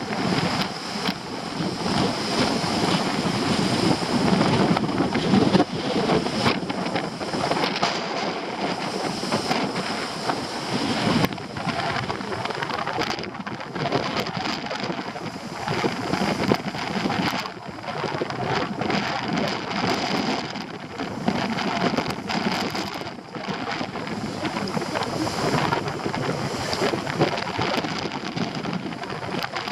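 Strong wind buffeting the microphone over a stormy sea's breaking surf, in uneven surges, with many short crackles and taps from sea-spray drops striking the camera.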